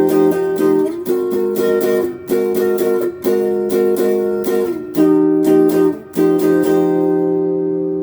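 Electric guitar on its neck pickup, played through a Crate GX15R amp and Golden Plexi overdrive pedal with the guitar's volume knob rolled back to about 3.5–4, so the overdrive cleans up. Chords are struck every second or so and left to ring, the last one sustaining to the end.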